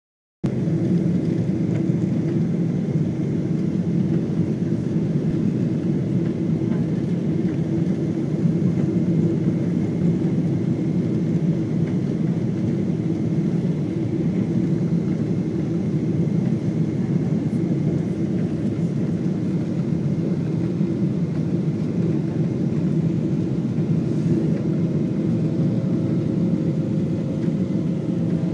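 Steady rumble of a jet airliner's engines and rushing air heard inside the passenger cabin, even and unchanging throughout.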